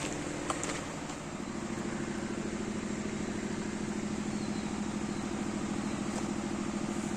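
An engine running steadily with an even pulsing note, which shifts slightly about a second in.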